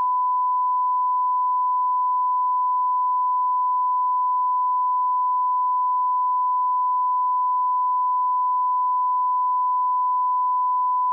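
Steady 1 kHz sine-wave line-up tone at −18 dB, a reference test tone for setting and checking audio levels. It holds one unchanging pitch and level throughout.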